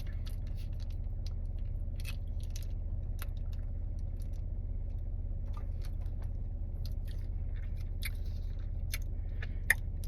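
A person chewing food, with scattered small wet mouth clicks and a sharper click near the end, over a steady low hum.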